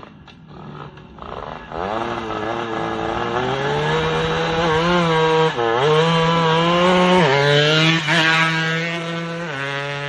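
Yamaha F1ZR two-stroke motorcycle engine in 125cc road-race tune being revved hard. It climbs after a second or two and is held high, with quick drops and recoveries three times, then eases off near the end.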